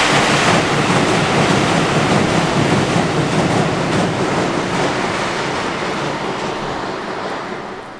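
A train crossing the neighbouring steel truss railway bridge: a loud, steady rattle of wheels over the steel span, loudest at the start and fading away towards the end as it passes.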